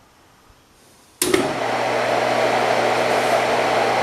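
A 2.65 hp, 230-volt two-speed pump motor switched on at high speed: about a second in it starts abruptly and runs with a steady whir and electrical hum. It runs smoothly on freshly replaced bearings.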